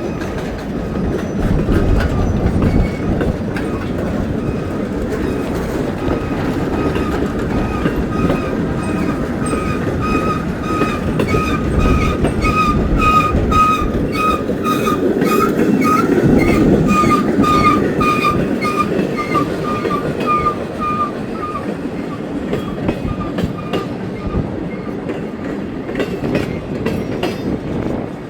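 Train rolling past at close range: a steady rumble of the cars with wheels clacking over rail joints, and through the middle a high squealing tone that pulses on and off about twice a second.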